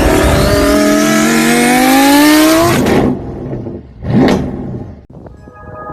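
A car engine accelerating, its pitch rising steadily for about three seconds before cutting off abruptly, then a short whoosh about four seconds in.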